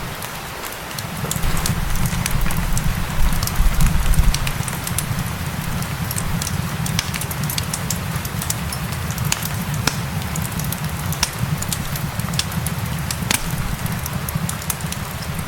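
Fireplace crackling with scattered sharp pops over a steady hiss of gentle rain. A low rumble swells briefly from about one and a half to four and a half seconds in.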